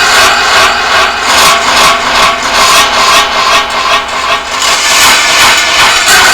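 Homemade electronic noise box being played: loud, harsh noise with several steady high tones, pulsing about three times a second.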